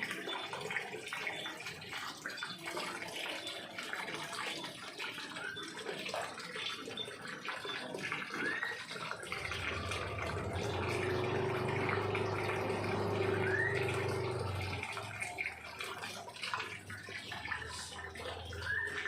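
Birds calling with short rising chirps every few seconds over a steady rushing noise. A low hum swells and fades about halfway through.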